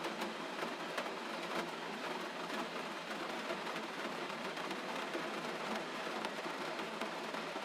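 Steady gentle rain: an even hiss of falling rain with many small drop ticks scattered through it.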